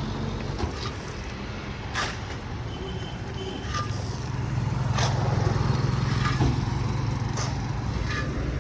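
A motor vehicle's engine running on the road, growing louder from about three seconds in and staying loud, with a few short sharp clicks over it.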